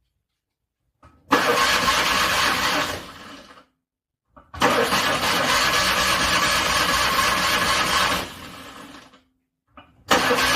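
Car engine cranking on the starter in a cold start, in three separate attempts cut by dead silence: a short one, a longer one of about four seconds, and a third beginning near the end. It keeps cranking without catching.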